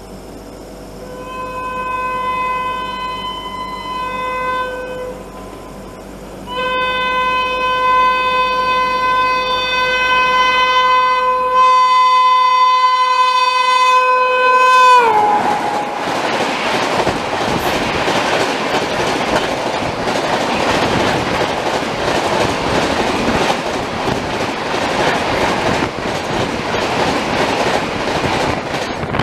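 An Indian Railways electric locomotive on the Sealdah Duronto Express sounding its horn as it approaches. There is a blast of about three seconds, a short blast, then a long blast that drops in pitch as the locomotive passes close by. The rush and clickety-clack of its coaches running past follows.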